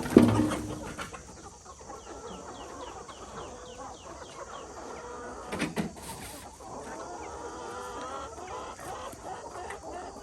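Chickens clucking, with a quick series of short, high, falling chirps in the middle. A loud thump comes right at the start and a smaller knock about halfway.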